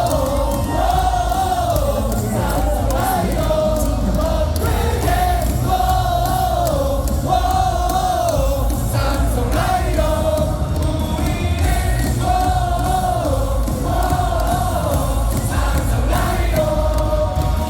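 Baseball stadium crowd singing a cheer song together over loud amplified music, the melody repeating in short phrases over a steady heavy bass.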